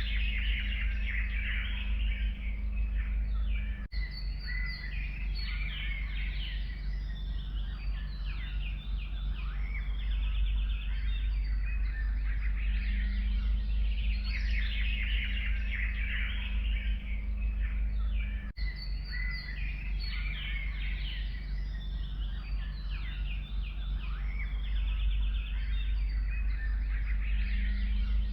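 A chorus of forest songbirds singing and chirping, many overlapping short calls and trills, over a steady low rumble. The sound drops out briefly twice, like splice points in a looped track.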